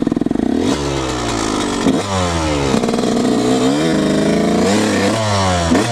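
Dirt bike engine pulling away in first gear, revving up and falling off several times as the throttle is opened and eased.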